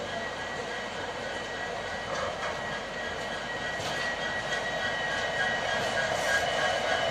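Passenger train rolling slowly through a station yard: a steady running noise with thin high whining tones over it, getting gradually louder in the second half.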